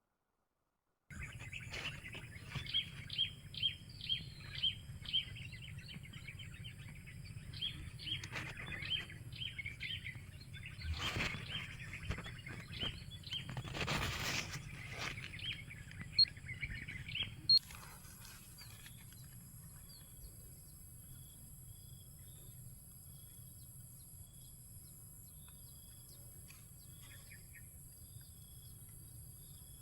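Wild birds chirping in many short, quick, repeated notes, thinning out after about two-thirds of the way through, over a steady high insect drone. A couple of brief rustling noises come near the middle.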